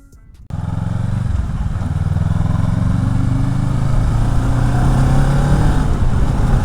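Kawasaki Ninja 650's 649cc parallel-twin engine with a full Akrapovic exhaust, running under way. It cuts in sharply about half a second in, and its pitch climbs slowly over a steady rushing noise.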